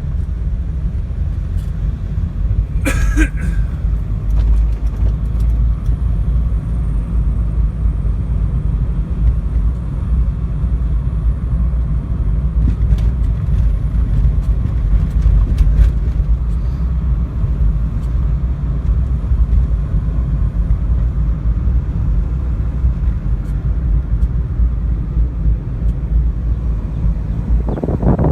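Car driving, heard from inside the cabin: a steady low rumble of engine and road noise. About three seconds in there is a brief sharper sound.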